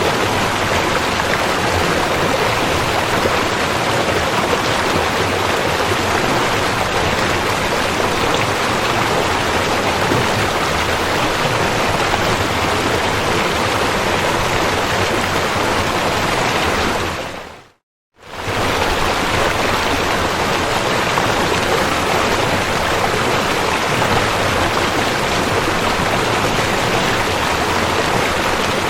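River water rushing steadily, an even hiss with no separate events. Just before the 18-second mark it fades out to silence for about half a second and fades back in.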